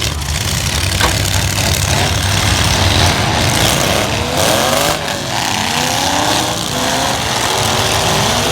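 Several light-truck engines running and revving at once in a demolition derby, their pitch rising and falling from about the middle on, with a sharp knock about a second in.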